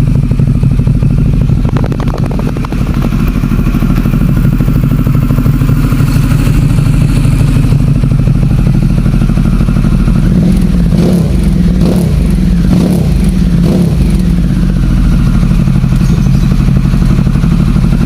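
Harley-Davidson Pan America 1250's V-twin engine running at idle through a Pazoma aftermarket exhaust, a loud, steady, deep note.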